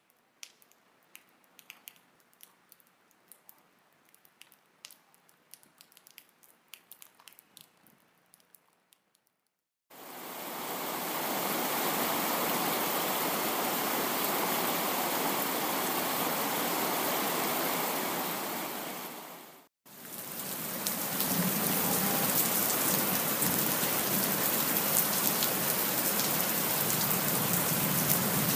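Rain: faint, scattered drips for about the first ten seconds, then steady rain fades in. The rain breaks off for a moment about twenty seconds in and fades back in.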